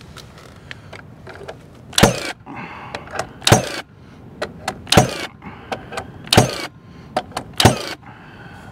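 Nail gun firing five times, about one and a half seconds apart, with small clicks between shots, tacking a freshly plumbed porch post in place.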